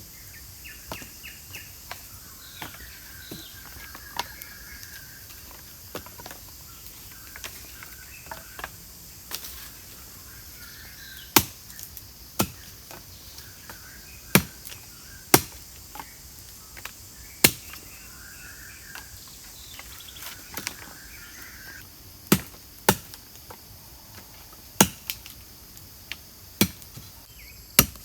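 Sharp, irregular strikes of wood being chopped with a blade, coming thick and fast from about eleven seconds in. Under them run a steady high insect drone and intermittent bird calls.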